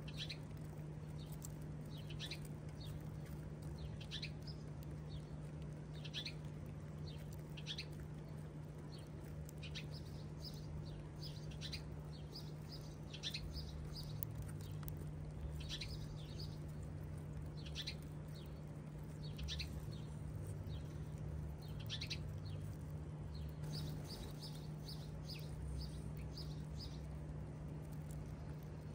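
House sparrows chirping: short, high chirps, singly and in quick runs, scattered throughout over a steady low hum.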